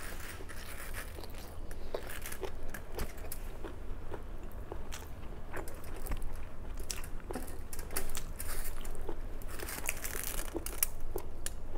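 Close-miked eating: chewing noodles and leafy greens with wet mouth clicks, smacks and light crunches, over a steady low hum.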